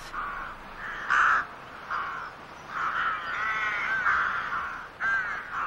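Birds calling outdoors, about six harsh calls in a row. The loudest comes about a second in, a long drawn-out run of calls falls around the middle, and a short falling call comes near the end.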